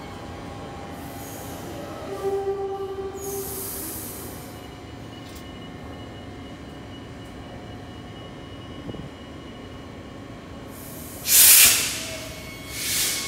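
A train heard close by: a steady hum carrying several high whining tones, then two loud hissing bursts near the end, the first the louder.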